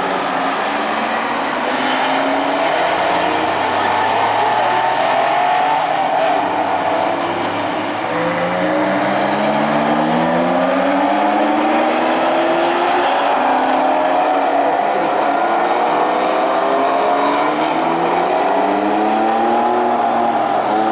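Several Porsche 911 flat-six engines accelerating out of a bend one after another, their rising engine notes overlapping as the cars pass in procession.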